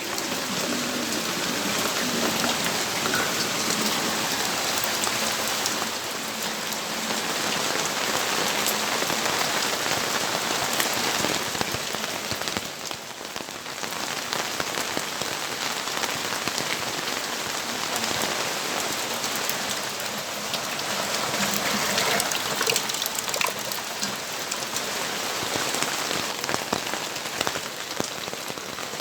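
Steady rainfall, many separate drop hits over an even hiss, easing slightly for a moment about halfway through.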